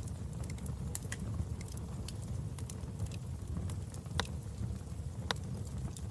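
Wood fire burning in a fireplace: a steady low rumble of flames with frequent small crackles and snaps, and two louder pops about four and five seconds in.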